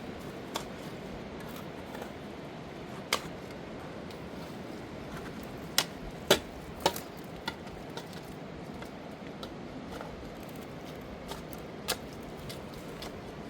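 Scattered sharp knocks and clicks over a steady rushing noise, the loudest three coming close together about six to seven seconds in.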